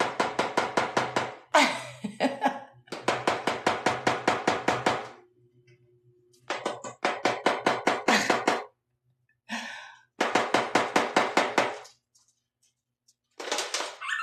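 Cockatiel rapidly tapping its beak against the inside of a bin, volleys of about ten sharp taps a second lasting one to two seconds each, repeated several times with short pauses.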